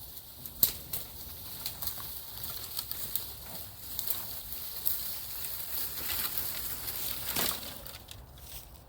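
Rustling and scraping handling noise with several sharp clicks or snaps, the loudest well under a second in.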